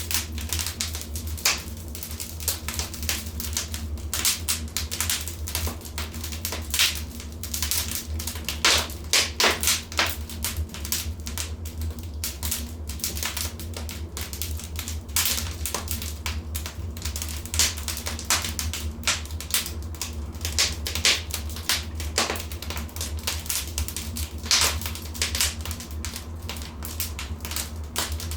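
Wood fire in a fireplace crackling, with a continual irregular run of sharp pops and snaps, some louder than others, over a steady low rumble.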